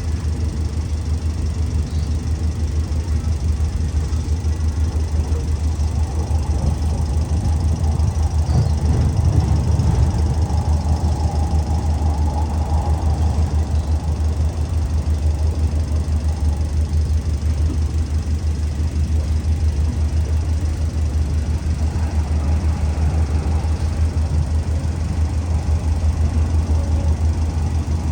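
Diesel engine of an Alsthom diesel-electric locomotive running steadily at idle, a deep even throb, swelling slightly about a third of the way through.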